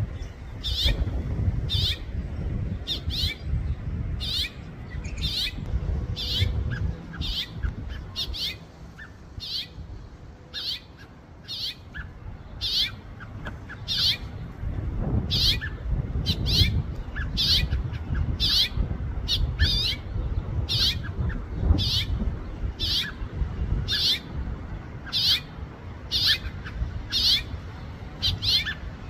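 House finch calling: short, sharp chirps repeated steadily about once a second, over a low background rumble.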